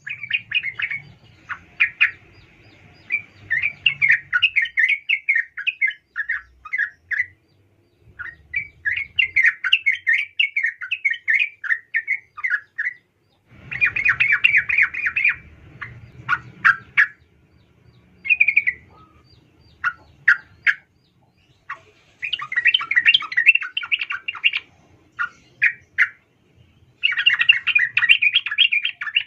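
Sooty-headed bulbul (trucukan) calling in bouts of rapid, scratchy chattering notes, broken by short pauses. The uploader presents it as a female calling to a male.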